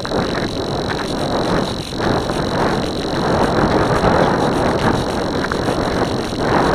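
Wind buffeting a glider's wing-mounted camera in flight: loud, surging air noise with a steady high whine underneath.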